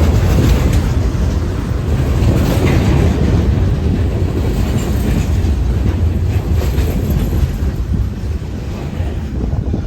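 Freight train cars rolling past on the rails, a steady heavy rumble with wheels clacking over the rail joints, easing slightly near the end.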